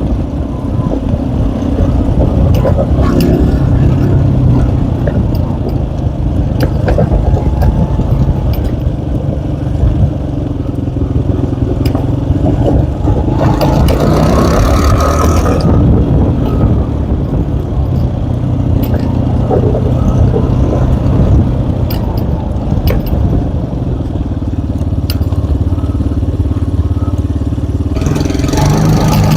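Small Tomos ATX motorcycle engine running under load while riding, its pitch rising and falling with the throttle, with scattered clicks and rattles. It gets louder and rougher briefly about halfway through and again near the end.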